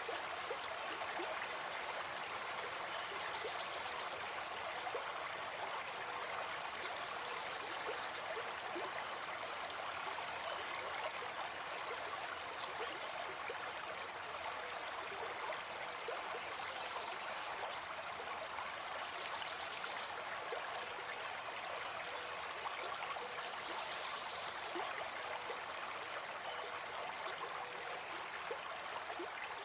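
Gentle forest stream flowing steadily.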